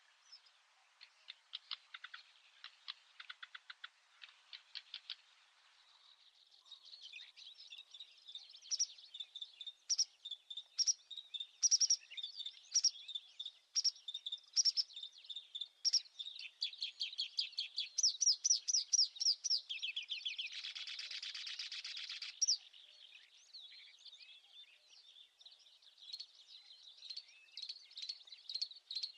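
Small birds chirping and calling in quick, high, varied notes and rapid trills. The first five seconds are a fast run of dry ticks, and a buzzy trill comes about twenty-one seconds in.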